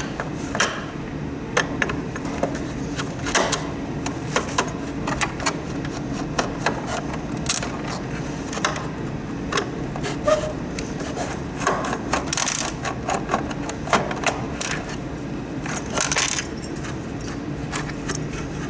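Irregular small clicks, taps and clunks of plastic and metal humidifier parts being handled and worked apart by hand, over a steady low hum.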